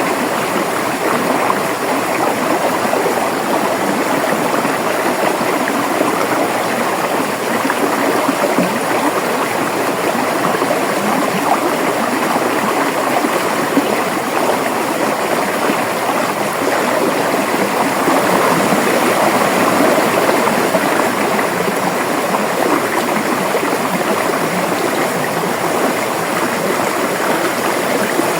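River water flowing over rocks in a steady, even rush with some gurgling.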